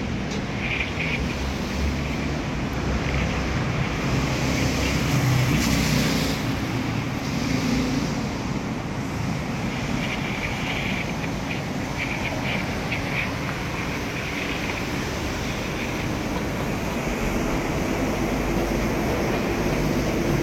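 Commuter train running on the line: a steady rumble of wheels and running gear with faint high squeals now and then.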